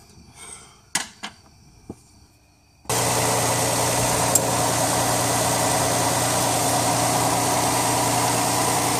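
Lexus ES300's V6 engine idling steadily, warmed up for a hot transmission-fluid check. It sets in abruptly about three seconds in, after a few light clicks.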